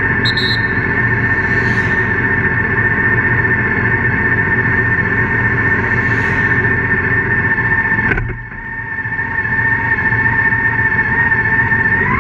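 Motorcycle engine running at a standstill with a steady high whine over it. There is a short drop in level about eight seconds in.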